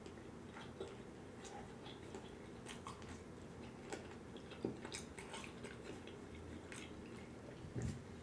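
A person chewing a bite of food close to the microphone, with scattered soft mouth clicks and smacks.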